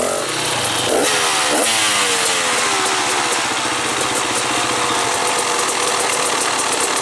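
Dirt bike engine revved in two quick bursts about a second in, then its pitch falling slowly over the next few seconds.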